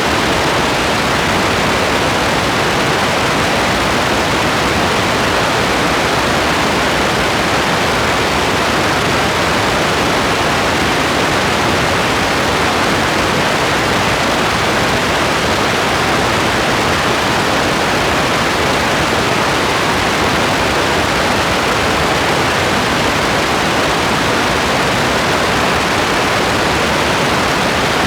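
Steady, even rain hiss with no single drops or splashes standing out.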